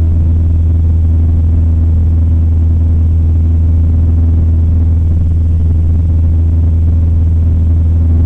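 Cessna 172M's four-cylinder Lycoming engine and propeller running at a steady power setting in flight: a loud, even, low drone that does not change.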